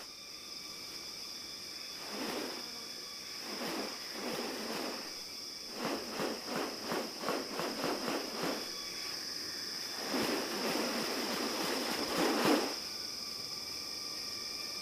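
A steady, high-pitched insect drone, with louder rasping bursts over it, including a run of about four pulses a second in the middle.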